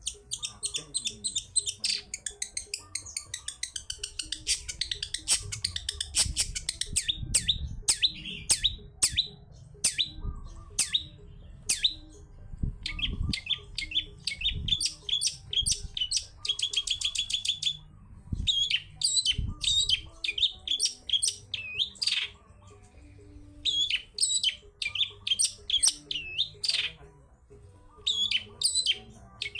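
Long-tailed shrike (cendet) singing a fast, varied song of sharp chirps and whistled notes, with a rapid even trill partway through and a few short pauses.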